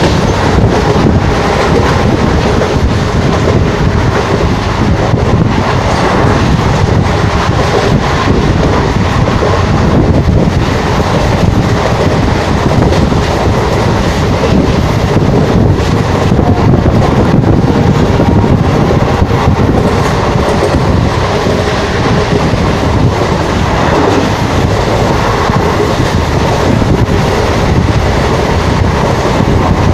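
Express train hauled by a WDM3D diesel locomotive, heard from the side of the moving train at speed: a loud, steady rumble of wheels on rail with rapid clicking.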